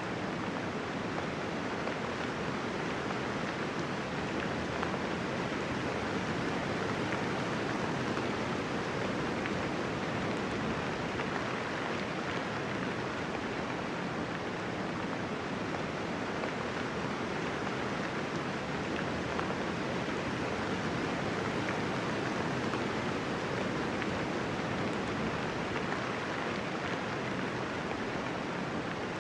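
Steady, even rain falling, with no thunder and no separate drops or events standing out.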